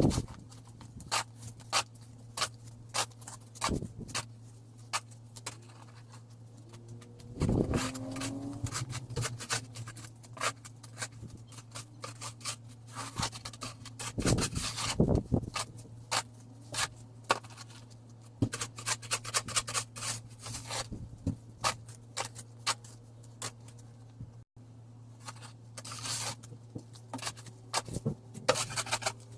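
Snow shovel scraping and knocking on snow and pavement in short, irregular strokes, over a steady low hum.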